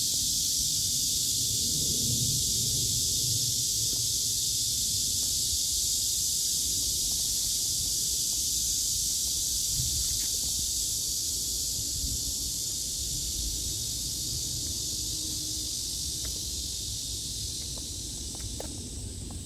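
Chorus of cicadas buzzing in a steady, high-pitched drone that eases slightly near the end, over low rumbling noise.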